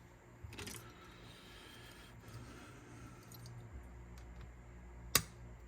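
Faint handling of a cassette deck's head-carriage mechanism: soft rustling and small mechanical clicks, with one short sharp click about five seconds in.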